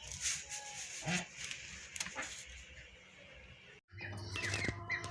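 Chickens calling with short, scattered calls over a hissy background. The sound cuts out abruptly a little before four seconds in, then resumes with quicker, higher-pitched chirping calls over a low hum.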